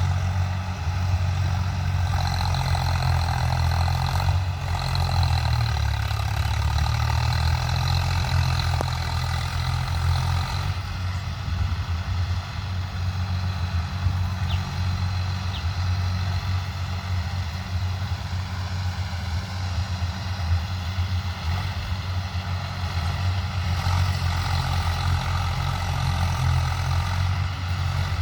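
Swaraj 744 FE tractor's three-cylinder diesel engine running steadily, with a low engine note throughout; the higher part of its sound falls away about eleven seconds in.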